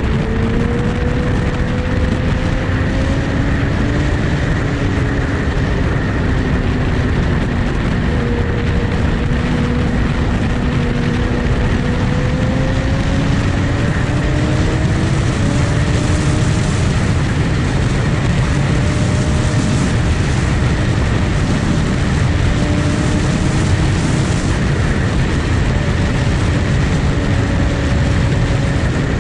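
Sport motorcycle engine running at a steady cruise, its pitch drifting slowly up and down, under a constant loud rushing noise.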